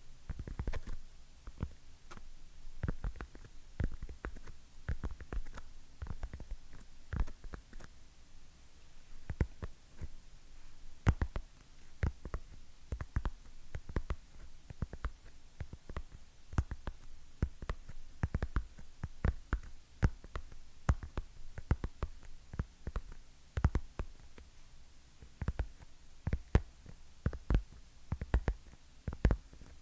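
Fingernails tapping on hard objects: many quick, irregular taps, several a second, each with a deep low thud.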